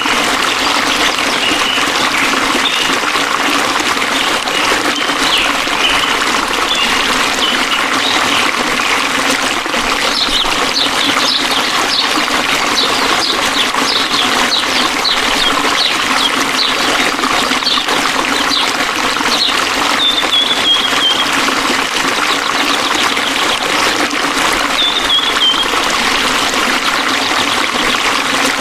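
Flowing water running steadily, with birds chirping over it; a short falling trill comes three times in the second half.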